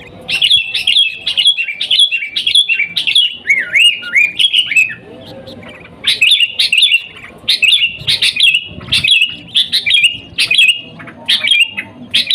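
Sooty-headed bulbul (kutilang) singing: a busy, rapid run of short whistled notes, some sliding downward, with a pause of about a second midway before the song picks up again.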